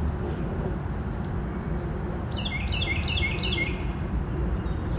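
A songbird sings a quick run of about six short notes, each sliding down in pitch, about halfway through, over a steady low rumble.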